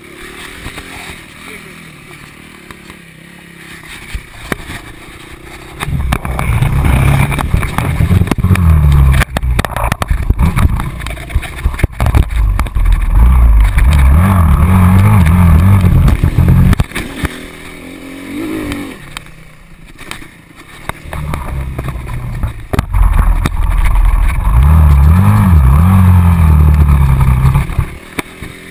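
Motocross bike engine revving hard in two long runs of throttle, pitch rising and falling, with a quieter spell at the start and a dip in the middle.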